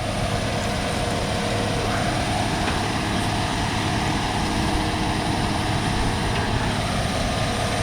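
Heavy diesel vehicle engine running steadily: a constant low hum with a faint steady whine above it.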